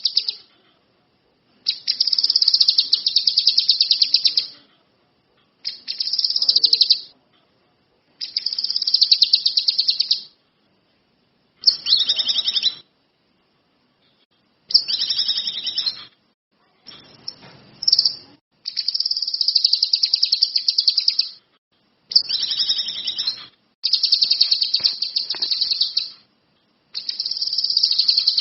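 Songbird singing in repeated bursts of a rapid, high trill, each one to three seconds long, with short pauses between them.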